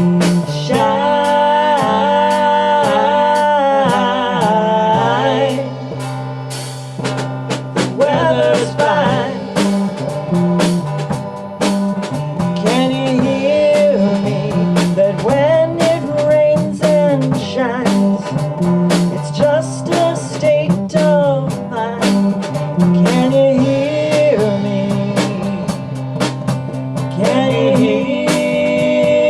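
Live band playing: electric guitar, bass and drums, with a melody line over a steady drum beat.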